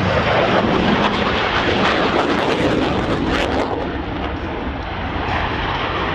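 F/A-18 Hornet fighter jets' engines running loud overhead, a dense rushing roar that eases slightly about four seconds in and then builds again.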